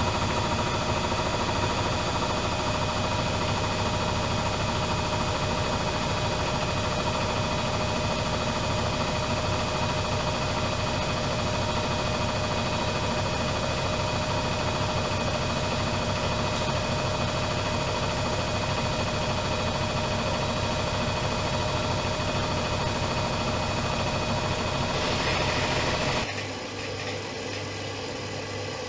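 Privileg Dynamic 7420 washing machine running steadily, its motor giving a steady whine over a low hum. Near the end there is a brief hiss, then the motor cuts out abruptly, leaving a quieter low hum.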